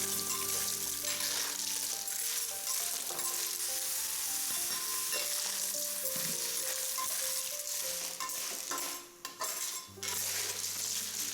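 Clams stir-frying in a hot pan: a steady sizzle with stirring, dropping away briefly about nine seconds in.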